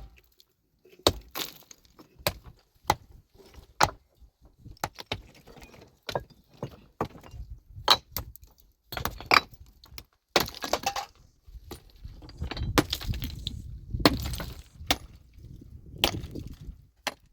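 Irregular sharp strikes and clinks of a tool hitting rock, with stones and rubble clattering between the blows.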